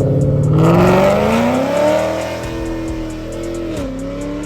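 Ford Mustang's engine revving hard as the car accelerates away, its pitch climbing for about two seconds and then holding, with a brief dip near the end.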